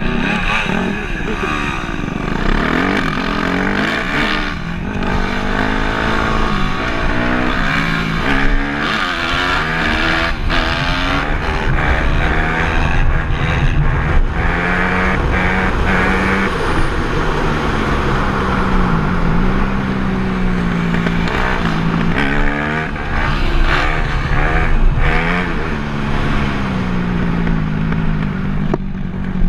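Dirt bike engine revving hard and easing off over and over, its pitch rising and falling as the throttle opens and closes.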